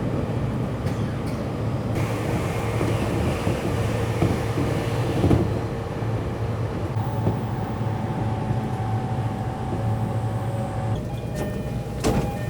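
Electric local train running between stations, heard from inside the carriage: a steady low rumble with faint humming tones, and a single click near the end.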